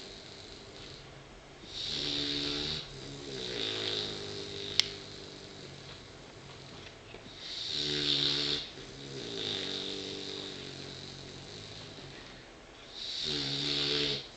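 Sleeping puppy snoring: three loud snoring breaths about every five to six seconds, each followed by a softer, longer breath. A single sharp click comes a little before the halfway point.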